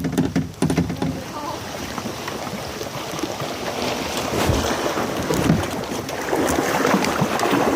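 Kayak paddling through floodwater: a paddle dipping and splashing, with water lapping at the hull and some wind on the microphone.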